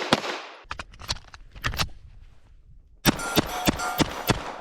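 Suppressed pistol fired in two quick strings of about half a dozen shots each, several shots a second, with a ringing tone under the second string.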